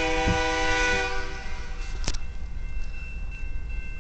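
CN freight locomotive's air horn sounding a chord, several steady tones held together, that cuts off about a second and a half in. It plays over the low rumble of the train.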